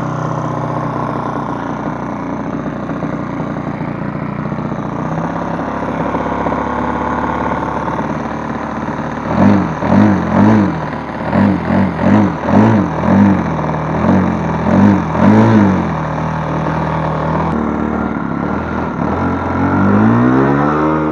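ASP 61 FS four-stroke glow engine of a model aircraft running at a steady idle. About halfway through, the throttle is blipped about ten times in quick succession. Near the end the engine revs up smoothly.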